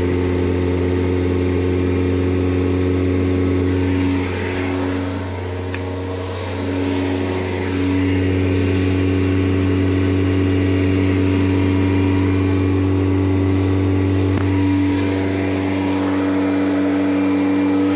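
Kirby Generation 3 upright vacuum cleaner running steadily while being pushed over carpet, its motor giving a loud, even hum. The sound drops in level about four seconds in and comes back up about four seconds later.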